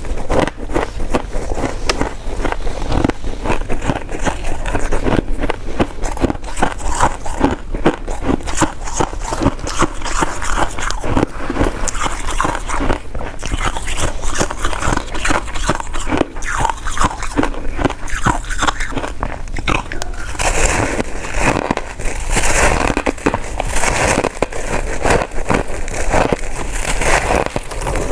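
Close-miked chewing of soft, chewy coconut sticky rice cake: a dense, continuous run of wet mouth clicks and smacks, growing brighter and hissier about two-thirds of the way through.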